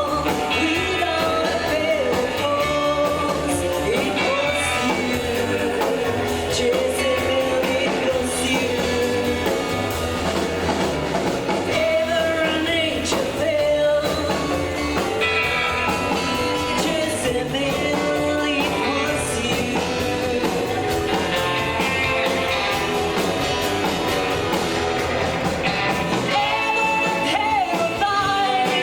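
Live rockabilly band playing a rock and roll number with a lead vocalist singing over guitar, bass and drums.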